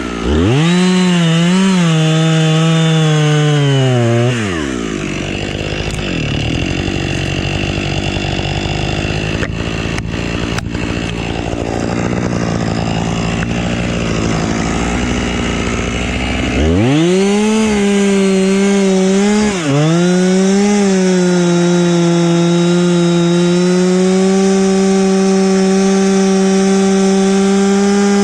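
Husqvarna two-stroke chainsaw running at high revs for about four seconds, dropping to a low, rough running speed for about twelve seconds, then revving up again and held at high speed to the end, with one brief dip in revs about three seconds after it picks up.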